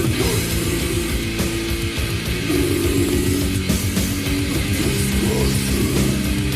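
Technical thrash/death metal: distorted electric guitars play held and bending riff notes over fast, dense drumming and bass.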